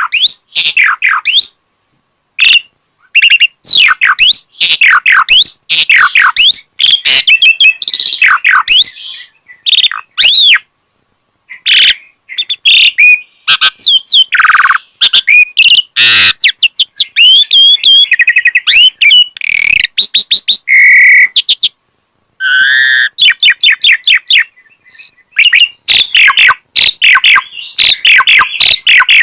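Asian pied starling (jalak suren) singing at full strength, pouring out a varied run of rapid chirps, gliding whistles and fast rattling trills, with a few short pauses.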